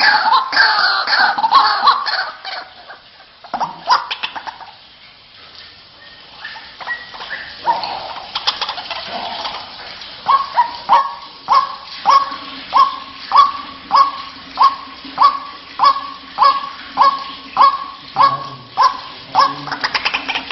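White-breasted waterhen (ruak-ruak) calls from a lure recording. A dense run of loud calls at first, then a quieter stretch with scattered calls, then from about halfway a regular series of short, repeated calls, roughly one and a half a second.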